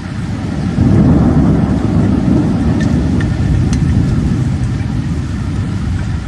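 Rainstorm noise: a steady low rumble of wind and heavy rain that swells about a second in, with a few faint clicks.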